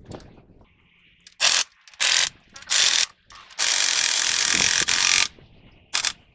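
Hand ratchet wrench clicking as bolts are turned: three short runs, then one longer run of about a second and a half, then a last short burst.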